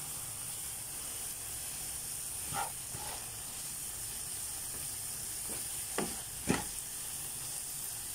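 Chicken pieces sizzling in a non-stick frying pan, with a slotted plastic spatula stirring and scraping across the pan in a few short strokes, the loudest about six and a half seconds in.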